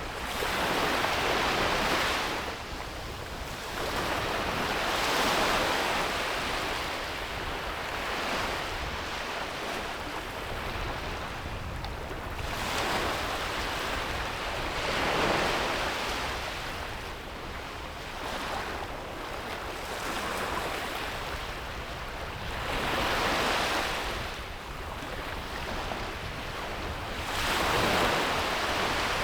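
Sea waves breaking and washing up a beach, the surf swelling and falling back every few seconds, with a light rush of wind.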